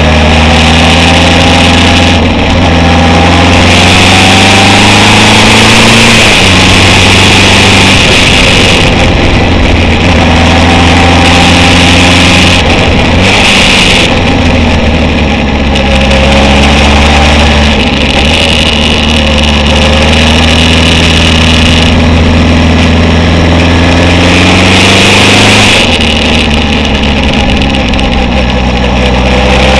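Honda CB750 chopper's air-cooled inline-four engine running under way, its pitch climbing and dropping several times with the throttle and gear changes through the bends, with wind noise on the microphone.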